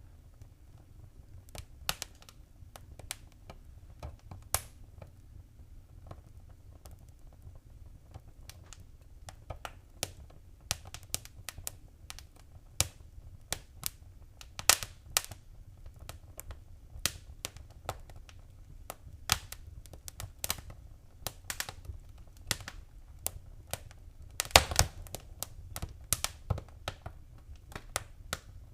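Wood fire crackling in a fireplace: irregular sharp pops and snaps over a low steady rumble, sparse at first and busier later, with a cluster of louder pops near the end.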